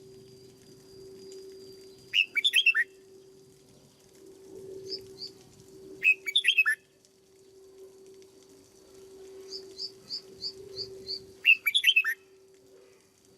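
Red-whiskered bulbul singing: three short, loud phrases of quick chirpy notes, with a run of about six higher, evenly spaced notes between the second and third phrase. A steady low hum runs underneath.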